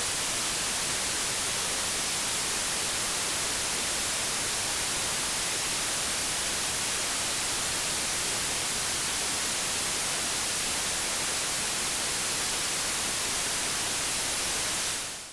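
Steady white-noise hiss, even and unchanging, that fades out quickly at the very end.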